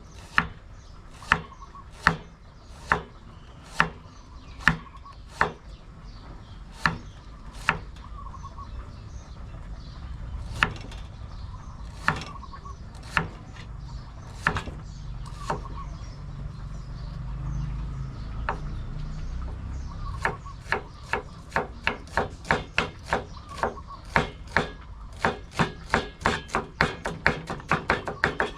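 A knife chopping green papaya in sharp, single strikes about once a second, then after a short lull a quicker run of strokes, two to three a second.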